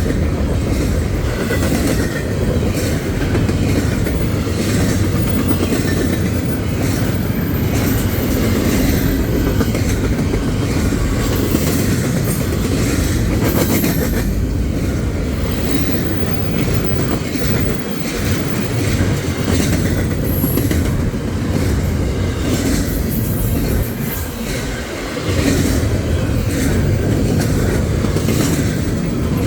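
Freight train rolling past, its cars' wheels clattering steadily over the rail joints, with a few brief high wheel squeals.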